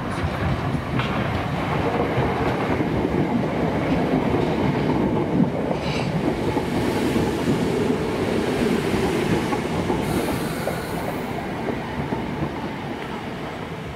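Southern electric multiple-unit train passing through the station, its wheels clattering over the rails, the sound falling away near the end.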